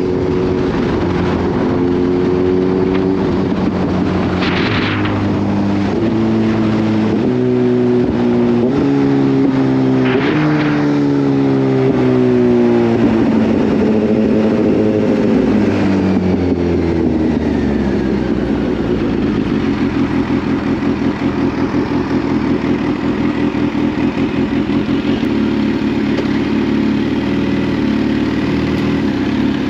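Kawasaki Z H2's supercharged inline-four engine under way: its pitch jumps up in several steps, then falls away smoothly as the bike slows, and it settles to a low, pulsing idle for the last ten seconds. Three brief hissing swells come early in the first half.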